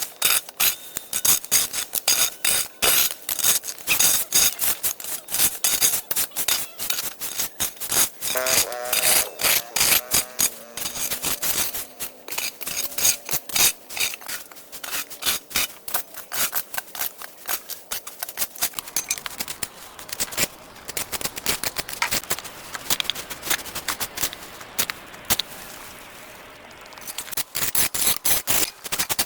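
Hand-tool work: a dense, irregular run of rapid scraping, rasping and clicking strokes, easing off briefly near the end.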